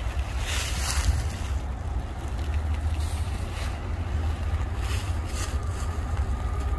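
Low, steady rumble of an approaching train, with wind gusting on the microphone.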